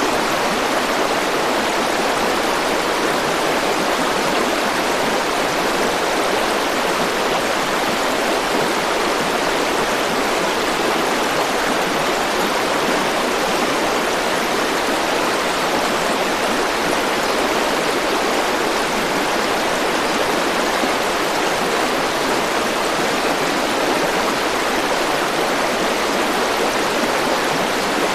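River water flowing and rushing, a steady even noise with no change.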